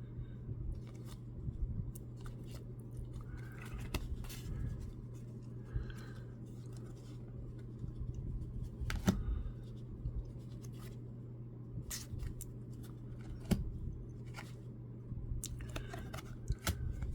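Baseball trading cards being handled and flipped through one at a time: soft sliding and scattered sharp clicks of card stock, with a few louder snaps, over a steady low hum.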